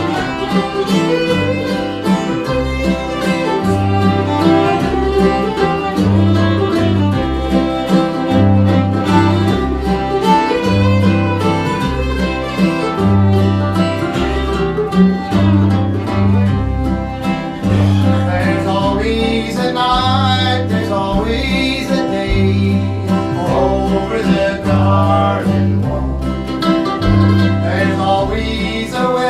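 String band playing an instrumental passage: a fiddle over guitar, with a bass keeping a steady pulse on alternating low notes.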